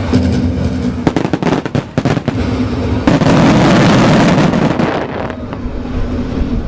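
Starmine fireworks: a quick string of sharp bangs about a second in, then a dense burst of crackling for about two seconds. Steady wind rumble on the microphone underneath.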